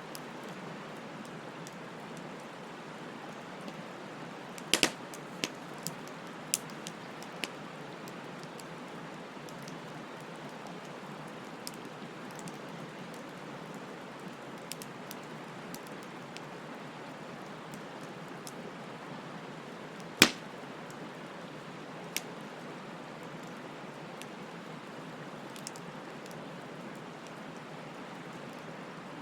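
Wood bonfire burning: a steady crackling hiss with scattered sharp pops, a cluster of them about five to seven seconds in and one loud snap about two-thirds of the way through.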